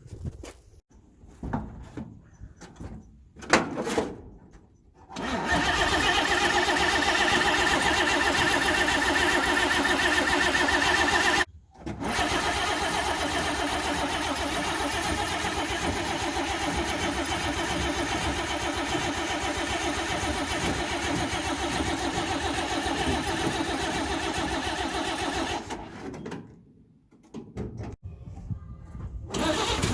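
A few knocks, then the 1957 Chevy truck's six-cylinder engine cranking over on the starter in two long spells, about six seconds and then about fourteen, with a brief stop between. This is a first start attempt after the truck sat for many years.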